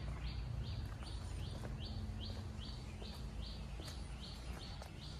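A bird calling one short, high note over and over, about two times a second, with a low steady hum and outdoor background noise beneath.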